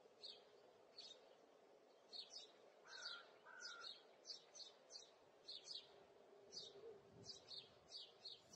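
Faint songbird chirps, short high notes repeating irregularly about twice a second, with a lower two-note call about three seconds in, over a quiet outdoor background.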